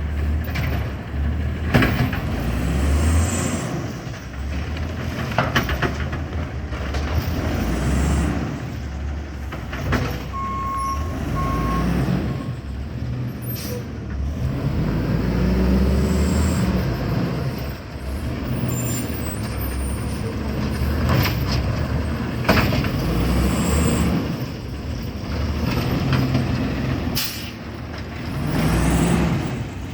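Garbage truck with an Amrep automated arm working: its engine repeatedly revs up and settles as the arm cycles, with air brake hisses and sharp metallic clanks. Two short beeps sound about ten seconds in.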